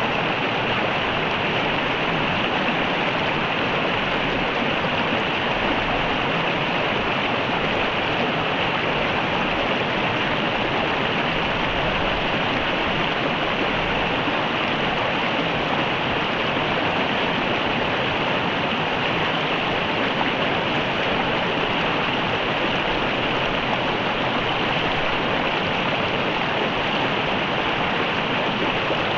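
River water running steadily: a continuous, even rushing of flowing water with no breaks or separate events.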